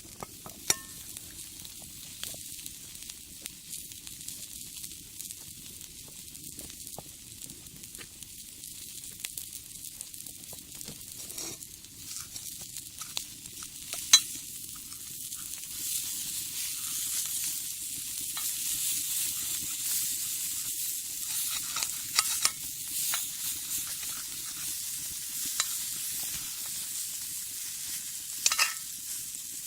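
Food sizzling in a cast-iron skillet over a wood fire, with scattered sharp pops and crackles; the sizzle grows louder about halfway through.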